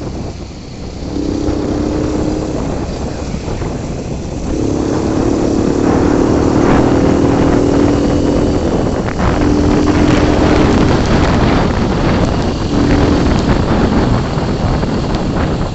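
Motorbike being ridden, its engine running under heavy wind noise on the microphone. A steady droning engine tone comes and goes several times.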